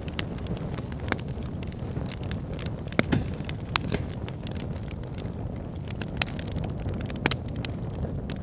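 Wood bonfire burning: a steady low rumble with frequent irregular sharp crackles and pops, a few louder ones about three seconds in and near the end.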